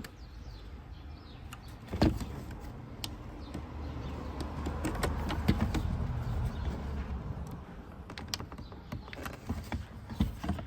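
Plastic clicks, knocks and rustling from a car's rear door panel and its cables being handled and worked loose, with a louder knock about two seconds in and a stretch of scraping and rustling in the middle.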